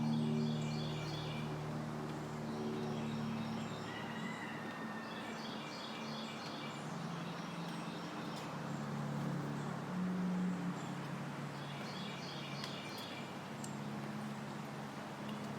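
A songbird repeating a phrase of rapid high notes about every six seconds, with a short whistled note between, over a steady low mechanical hum.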